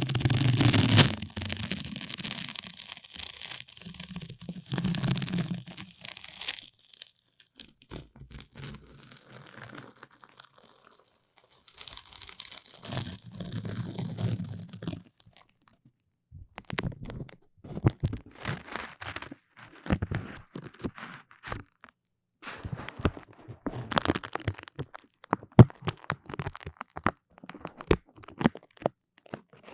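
Close-miked sticky ASMR sounds: a continuous tearing, peeling hiss for about half the time. It then turns into many sharp, separate sticky snaps and crackles.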